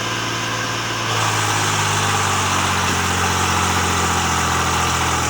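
Swaraj 735 FE tractor's three-cylinder diesel engine running steadily, growing louder about a second in.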